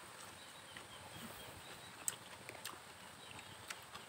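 A person eating with the mouth close to the microphone: faint chewing with a handful of sharp mouth clicks, the loudest about two seconds in, over faint outdoor background.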